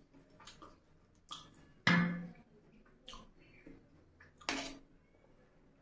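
Close-miked wet chewing and smacking of a mouthful of saucy fried chicken, coming in short spells, loudest about two seconds in and again about four and a half seconds in.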